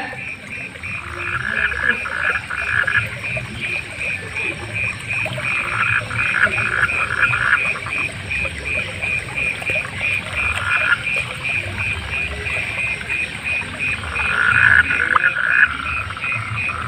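Frogs calling at night in a chorus. One steady, evenly pulsed call runs throughout, and louder croaking bouts of a second or two come four times, a few seconds apart.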